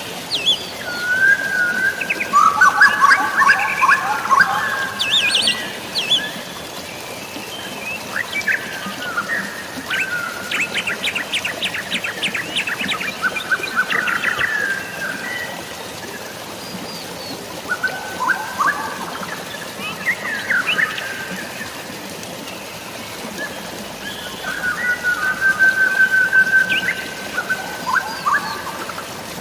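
Several songbirds chirping and trilling over a steady hiss of rain and running water, with a fast rattling trill about ten seconds in.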